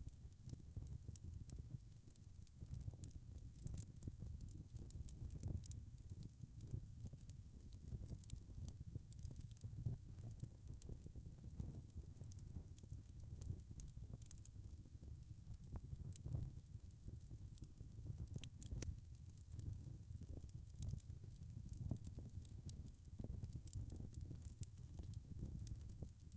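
Wood fire crackling, with many small irregular pops over a steady low rumble of the flames.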